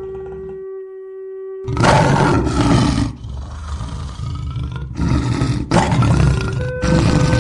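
A large animal gives several loud, rough calls, each a second or so long, starting a little under two seconds in. Soft background music with held notes plays under them.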